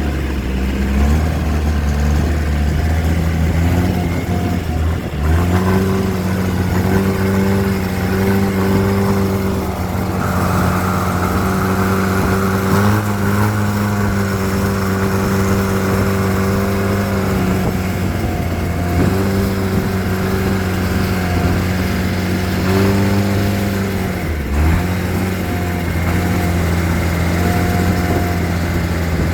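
Boat engine running steadily, its pitch dipping and picking up again several times as the throttle changes, with a rush of hiss for several seconds in the middle.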